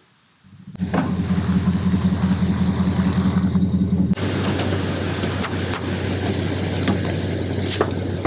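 A vehicle engine starts up less than a second in and runs steadily. Its note drops to a lower pitch about four seconds in.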